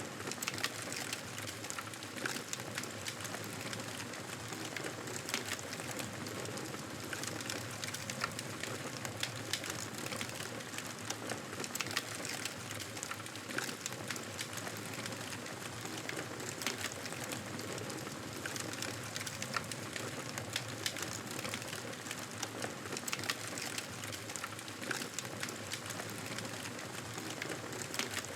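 Wood fire crackling steadily: a constant hiss with frequent sharp pops and snaps.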